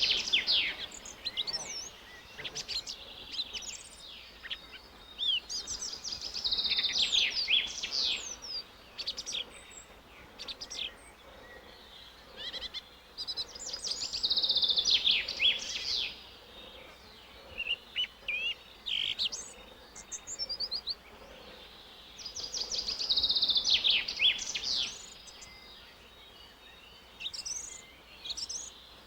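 A songbird singing: a rapid, high trilled phrase repeated four times, about every eight seconds, with scattered short chirps in between.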